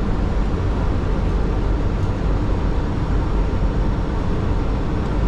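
Steady low rumble of a Boeing 737 flight deck on short final: airflow and engine noise heard inside the cockpit.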